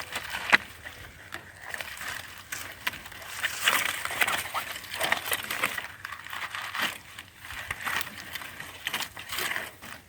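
Irregular rustling, scraping and crinkling of a rigging strap being wrapped around a log, with brushing and crunching in dry leaves and debris.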